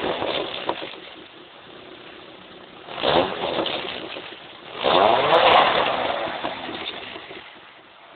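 Engine revved through an aftermarket exhaust. The note falls back from a rev at the start, then comes a short throttle blip about three seconds in. A longer rev follows about five seconds in and sinks back to a steady idle near the end.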